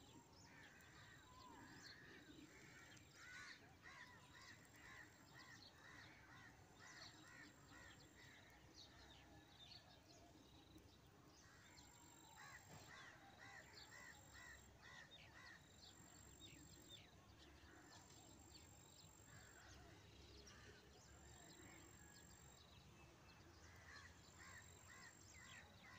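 Faint birds calling, with several runs of quick repeated chirping notes and short high thin whistles over a quiet background hush.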